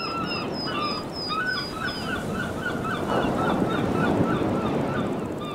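Birds calling outdoors: a rapid run of short repeated calls, several a second, with a higher series of short chirps over the first couple of seconds, over a steady background of outdoor noise.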